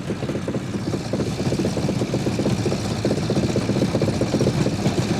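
Engine of a small all-wheel-drive off-road vehicle running under load with a steady, rapid pulsing as it drives its tractor-track-shoe wheels, crawling slowly forward through deep mud.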